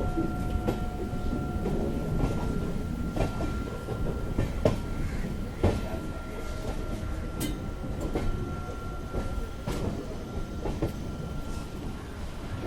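Train running on the rails: a steady low rumble with irregular clanks and clatter of wheels over rail joints, and a thin, steady high whine.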